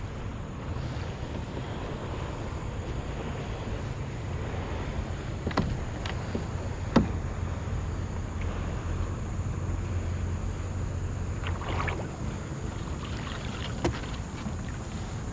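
Wind and water noise around a kayak, with a low rumble swelling for a few seconds in the middle and a few sharp knocks.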